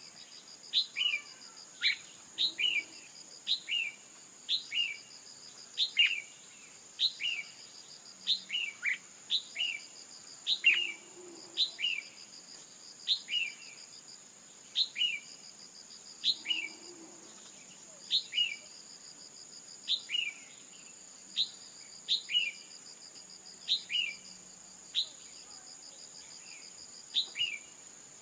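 Female red-whiskered bulbul calls: short, sharp chirps that slide downward, mostly in quick pairs about once a second, the kind of calls used to provoke a male into full song. A steady high insect drone runs behind them.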